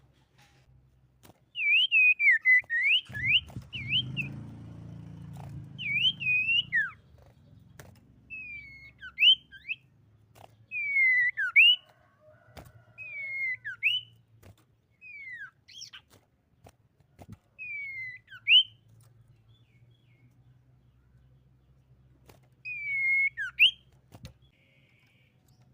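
Common iora (sirtu) singing about eight short phrases of clear whistled notes, each slurring down and then sharply up, with pauses between phrases. A faint low hum runs beneath, with a few sharp clicks.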